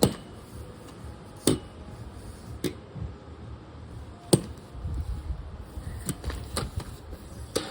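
Wind buffeting the microphone in a low rumble, with four sharp clicks or knocks spread over the first half and several fainter ones near the end.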